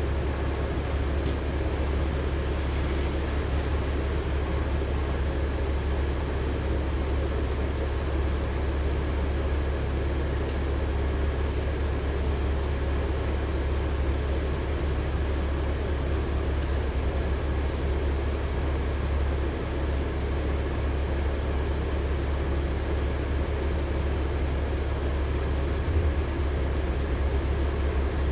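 Cabin sound of a LiAZ-6213.65 articulated diesel city bus on the move: a steady low engine drone with road and body noise. Faint short clicks come three times.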